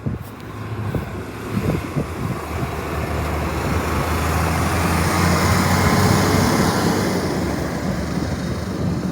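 Recycling garbage truck's diesel engine running, growing louder to a peak about halfway and then easing a little, as the truck comes close.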